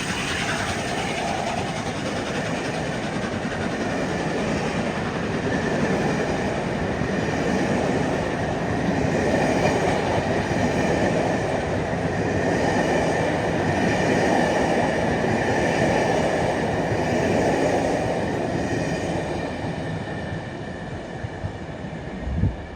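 A train running past on the rails with wheel clatter, growing louder through the middle and fading away near the end, with a short low thump just before it ends.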